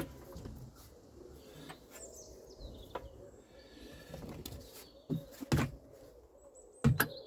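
Birds chirping faintly in the background, with a few sharp knocks near the end, loudest a little after two-thirds of the way in, from handling around the engine as oil is worked over its gears.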